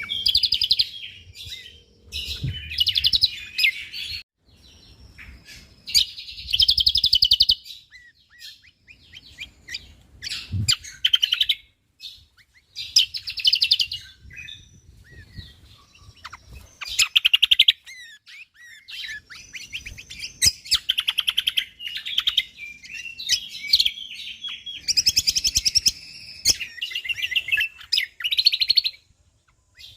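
Cucak kombo (kecial kombok) singing its rapid, dense song. Phrases of quick chattering notes last a second or two each and follow one another with short pauses.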